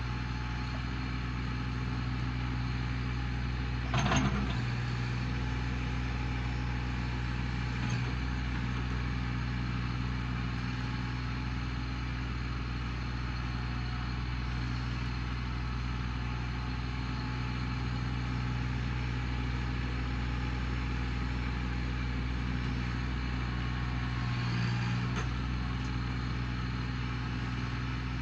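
Small farm tractor's engine running at a steady speed, with a sharp knock about four seconds in and a slight swell near the end.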